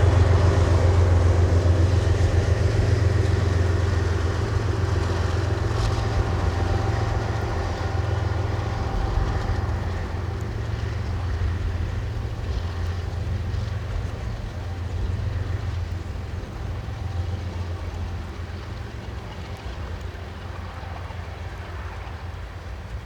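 Engine running steadily with a deep, even hum that slowly fades away.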